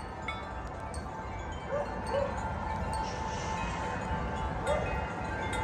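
Wind chimes ringing in the wind, several notes overlapping and sustaining, with a low rumble of wind underneath.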